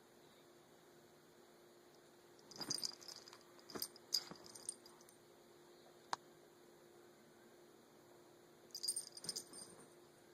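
Small metal necklace chain jingling in a few short bursts, with one sharp click, as a kitten bats and plays with it.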